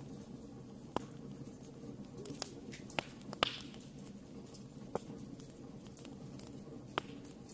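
Wood fire in a fireplace crackling: sharp pops and snaps at irregular intervals over a low steady rush of the flames, the loudest pop about three and a half seconds in.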